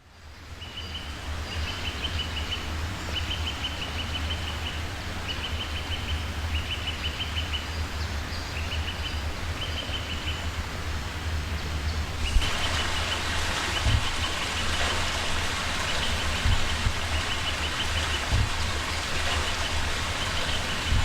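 Outdoor ambience: a steady low rumble with short, repeated high trills from a bird or insect. About 12 seconds in, a steady hiss of noise rises sharply and continues, while the trills go on.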